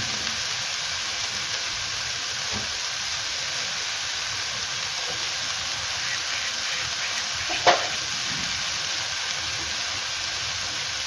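Diced chicken and vegetables frying in oil in a pan, sizzling steadily. A brief sharp knock about two-thirds of the way through.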